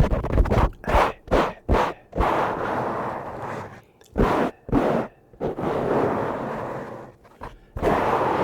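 Brush bristles swept across a microphone: a quick run of short swishes, then longer sustained strokes with a few short ones in between.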